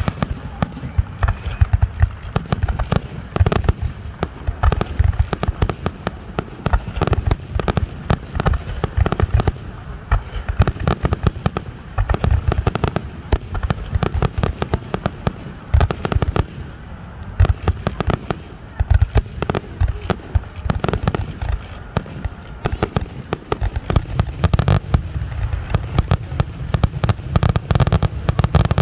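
Fireworks finale barrage: a dense, continuous run of booming aerial shell bursts and crackles. It thins briefly about two-thirds of the way through, then builds up again.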